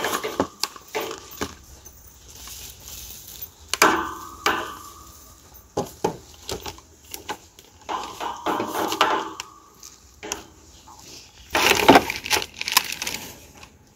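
Plastic parts of a collapsible mini mop clicking and rattling as it is handled, opened out and folded, with sharp snaps in several clusters.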